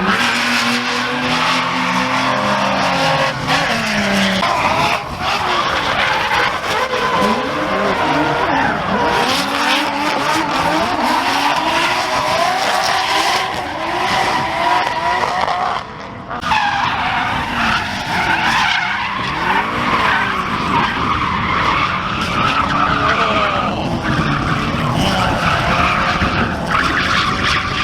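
Drift cars sliding with their tires squealing, engines revving up and down through the slides, more than one engine pitch rising and falling at once.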